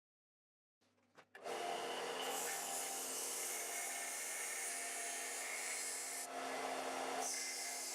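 Sealey belt sander running with a steel blade being ground against the belt: a steady motor hum under a harsh grinding hiss. The sound starts abruptly about a second in, and the grinding hiss eases for about a second near the end before the blade goes back onto the belt.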